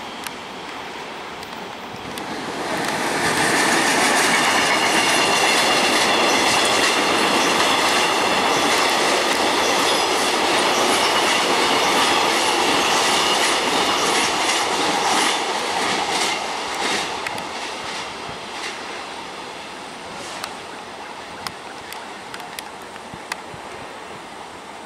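Electric passenger train passing close: a loud, steady rolling noise with a high-pitched wheel squeal on the curve and wheels clicking over rail joints. The sound swells about two and a half seconds in, then fades as the train draws away.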